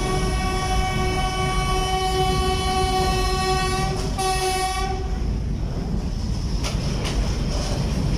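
Train horn sounding one long blast that breaks off about four seconds in, then a short second blast that stops about five seconds in, over the steady rumble of the train running on the rails, with a few clacks near the end.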